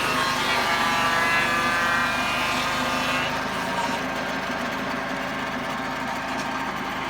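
Engine-driven saw mill cutting redwood, running steadily. A high whine of the blade in the cut sounds for about the first three seconds, then drops away, leaving the engine running.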